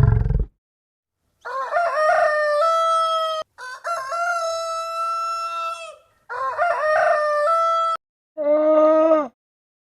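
A rooster crowing three times in a row, each crow long, with stepped pitch and a held final note. A shorter, lower call follows near the end, and the tail of a rough, loud animal roar fades out in the first half second.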